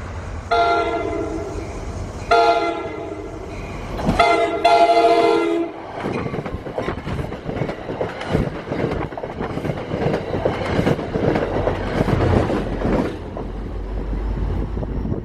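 Train air horn sounding three blasts of about a second each, then a commuter train's coaches passing close by with a steady rumble and the rapid clicking of wheels over the rails.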